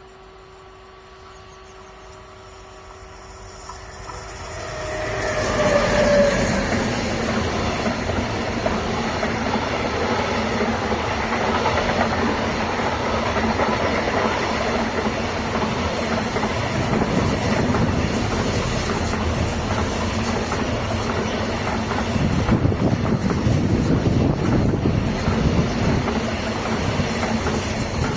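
A train approaching and passing close by: the noise builds over the first five seconds or so, then stays loud and steady for the rest.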